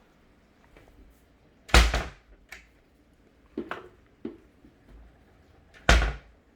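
Two loud thumps about four seconds apart, with a few lighter knocks between them.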